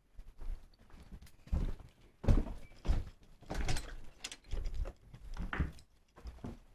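A series of dull thumps, roughly one every half second to a second.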